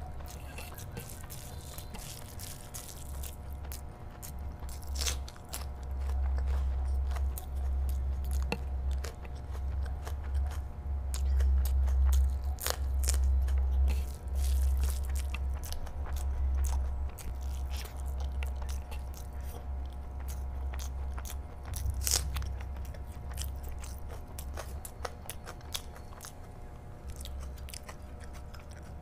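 Close-miked chewing of mouthfuls of curry-soaked rice eaten by hand: wet mouth clicks and smacks, with the squish of fingers working the rice. Louder through the middle stretch.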